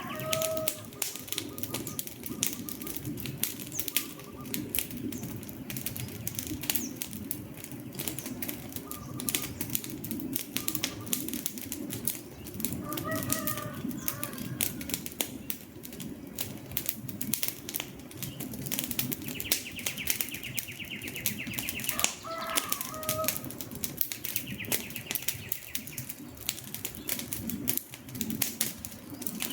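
Wood fire crackling, with dense irregular pops and snaps over a low rustle of the flames. Short bird calls sound now and then in the background, with two longer buzzy trills a few seconds apart in the second half.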